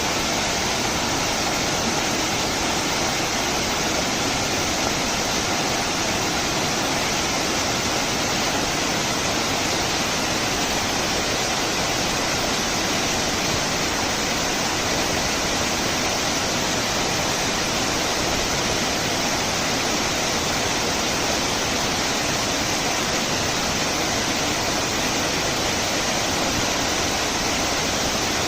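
Waterfall rushing, a steady, unchanging wash of falling-water noise.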